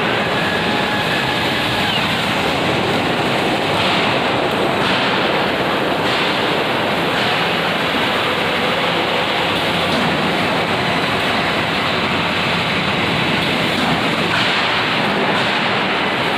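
Steady, loud industrial noise on the floor of a railway coach welding shop: a continuous rush at an even level, with no separate welding cracks or clanks standing out. A faint high whine sounds for the first two seconds.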